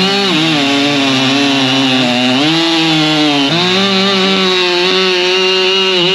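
Husqvarna 592 XP two-stroke chainsaw running at high revs while cutting firewood, its engine note sagging and recovering as the chain loads up in the wood.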